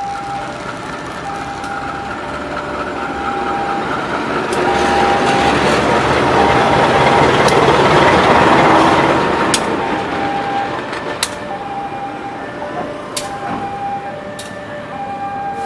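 A diesel locomotive passes at close range pulling passenger coaches. Its engine and wheel noise swells to loudest about eight seconds in, then the coaches roll by with sharp clacks over the rail joints. Through it all a level-crossing warning alarm keeps sounding, a repeating chime that steps between two pitches.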